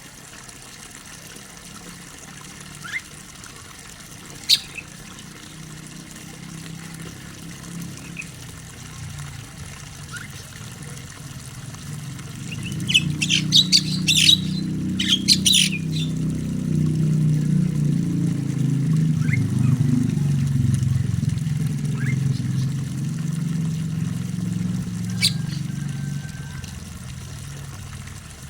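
A starling giving a burst of loud, harsh squawking calls about halfway through, with a few single short chirps before and after. Under it a low rumble swells through the middle and fades near the end.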